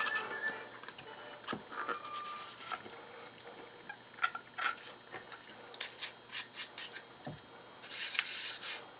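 Brass-bristle brush scrubbing a metal part of a hand-crank coffee grinder in short, scratchy strokes, with light clicks and taps as the part is handled. There is a quick run of strokes about six seconds in and a longer spell of scrubbing near the end.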